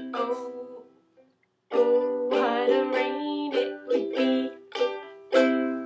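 Ukulele strummed in chords. The playing stops for under a second about a second in, then resumes, with a final loud strum near the end that rings out.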